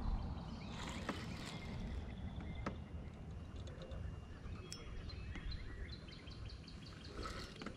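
Birds chirping in short repeated high notes over a low steady outdoor rumble, with a couple of faint clicks.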